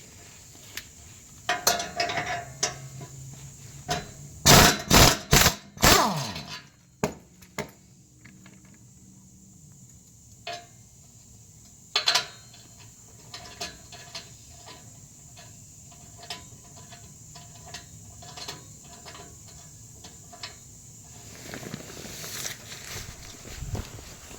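Metal clanks and taps from hand tools and exhaust parts being worked under a car: a burst of loud knocks about five seconds in, a single knock later on, then a run of light ticks.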